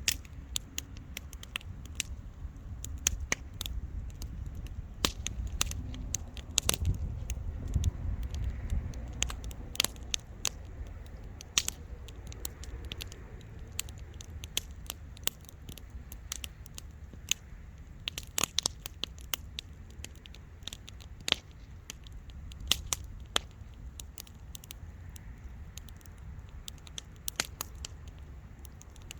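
Wood fire crackling and popping, with sharp snaps at irregular intervals over a low rumble of burning, which swells for a few seconds about a quarter of the way through.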